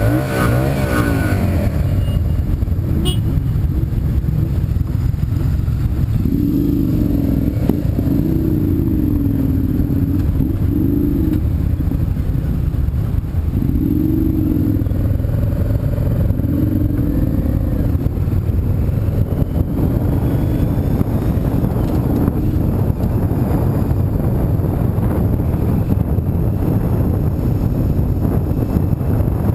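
A car driving along: a steady low engine and road rumble, with a pitched note that rises and falls several times in the middle.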